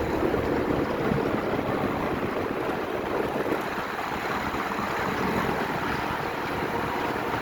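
Motorcycle on the move: steady engine drone under heavy rushing wind noise on the microphone, holding an even level.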